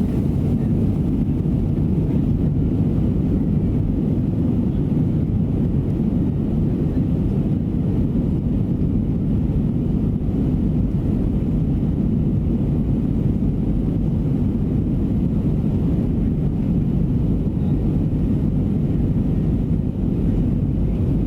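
Steady low rumble of engine and airflow noise heard from inside the cabin of a Boeing 737-700 airliner.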